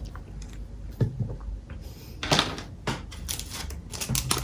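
A 1974 Zippo lighter being handled, giving sharp metal clicks: a few separate clicks, then a quick run of small clicks near the end.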